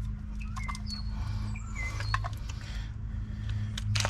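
Small birds chirping and whistling in short calls, one a falling whistle near the middle, over a steady low hum.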